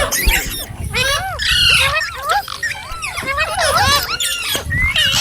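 Several green parrots squawking and chattering, with many short, arching calls overlapping one another without a break.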